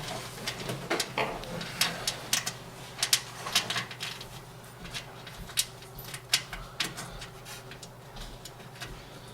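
Small metal motherboard standoffs and screws clicking and clinking as they are picked through by hand: irregular light clicks, busier in the first few seconds and sparser after, over a faint steady hum.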